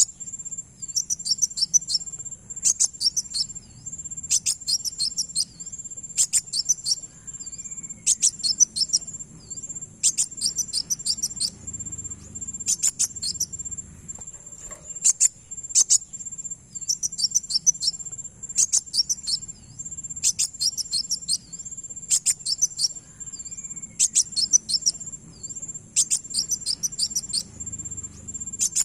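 Lure recording of a kolibri wulung (kowul) sunbird singing: clusters of rapid, high, sharp chips and short trills repeating about every two seconds in an even loop. A continuous high, shrill insect-like drone runs underneath.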